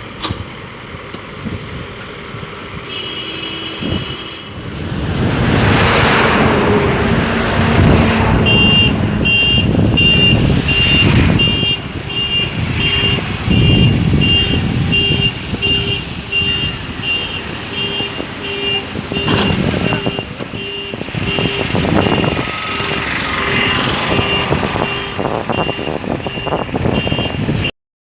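Heavy road-construction machinery running loudly, engines swelling and easing, with a reversing alarm beeping steadily at a regular pace from about eight seconds in.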